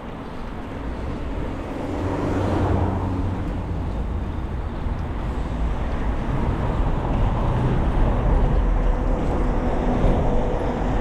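Road traffic: motor vehicles driving past, a steady rush with an engine hum that gets louder about two seconds in.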